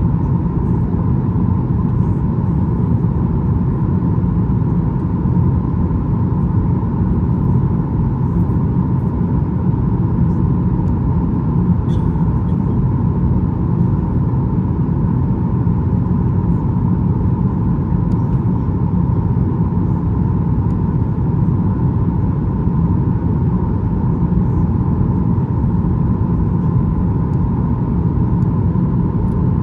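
Steady cabin noise inside a Boeing 737 MAX 8 in flight: the CFM LEAP-1B engines and the airflow make a loud, even rumble with a steady hum near 1 kHz.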